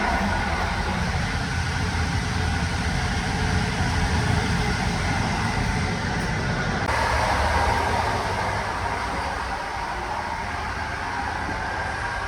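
Steady running noise of a moving passenger train heard from on board: a low rumble with rail and wheel noise. The sound changes abruptly about seven seconds in.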